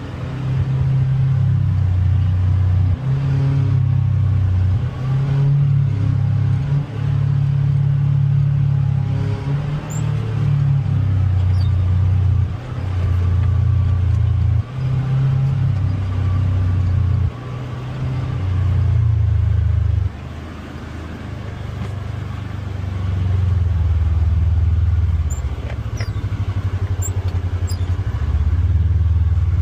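Polaris Xpedition UTV engine running under a varying throttle on a trail, its low note repeatedly stepping up and down in pitch and loudness.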